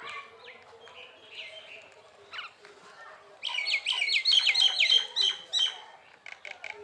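A bird chirping: scattered short falling chirps, then a fast run of about a dozen chirps in the middle, a few each second.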